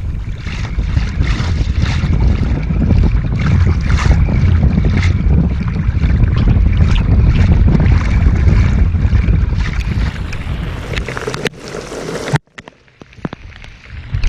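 Gusty storm wind buffeting the microphone with a heavy low rumble, with many sharp taps of raindrops striking close to it as the rain wall arrives. About twelve seconds in it cuts off sharply to a faint hiss with a few scattered taps.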